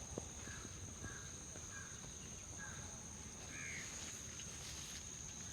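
Outdoor ambience: a steady high-pitched insect-like whine, with about six short, faint bird calls spread through it.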